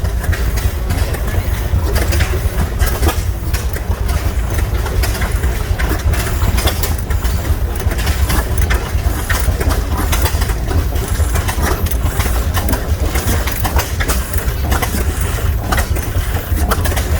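Large stationary oilfield gas engines running together, a steady deep low rumble with many sharp, irregular knocks and clicks over it.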